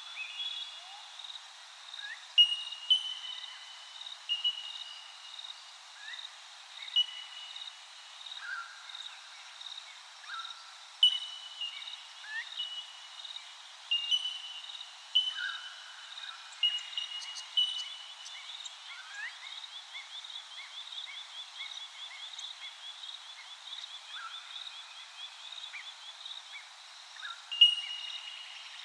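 Several birds calling: short whistled and chirping notes overlap irregularly, with a fast run of quick rising notes in the middle. A steady high-pitched pulsing note repeats several times a second underneath.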